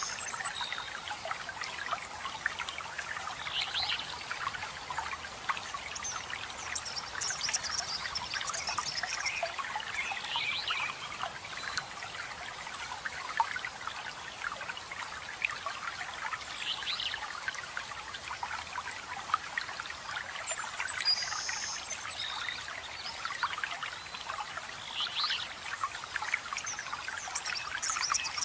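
Water trickling and splashing steadily over rocks, with birds chirping in short phrases every few seconds above it.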